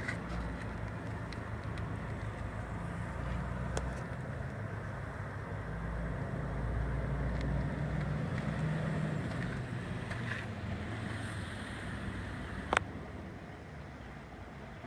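1976 Ford 1-ton dump truck engine running steadily with a low hum, a little louder in the middle; a sharp click sounds near the end.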